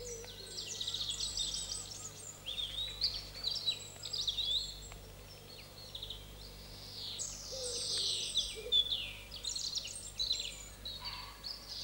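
Songbirds singing: a string of varied chirps, warbles and quick trills, over a faint steady low hum.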